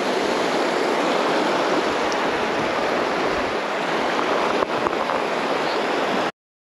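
River water rushing steadily over rocks. It cuts off abruptly near the end, leaving dead silence.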